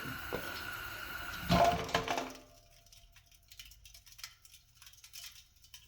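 Tank-top propane heater's burners hissing steadily, a knock as the heater is rocked, then the hiss cuts off suddenly a little over two seconds in as the tip-over safety shutoff stops the gas. Faint ticks follow.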